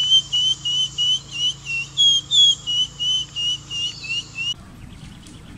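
Bird song: a rapid series of short, clear whistled notes, about three a second, slightly varying in pitch, that cuts off abruptly about four and a half seconds in.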